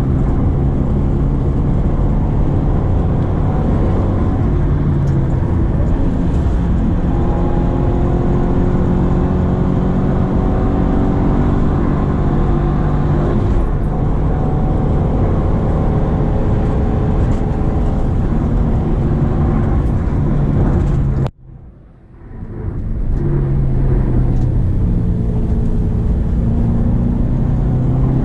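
Subaru Impreza XV's 2.0-litre flat-four boxer engine running under load up a steep grade, its note rising and falling. About 21 seconds in, the sound drops out abruptly for about a second and then builds back up.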